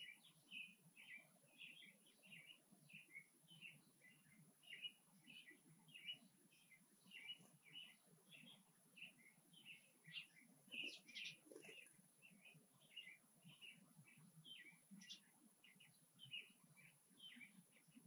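Small songbirds chirping over and over, several short chirps a second, without a break.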